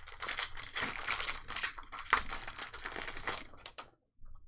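Trading-card pack wrapper being torn open and crumpled, a dense crinkling that stops about four seconds in.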